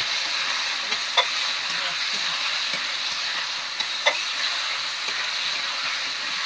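Spice masala with potatoes, tomatoes and green chillies sizzling in hot oil in a kadai while it is stirred and fried down (koshano). Two sharp knocks of the spatula on the pan stand out, about a second in and about four seconds in.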